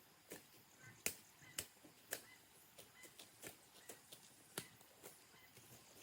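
Faint, sharp chopping strikes at an irregular pace of about two a second, the loudest just after a second in, typical of a hand tool cutting at the bank's vegetation.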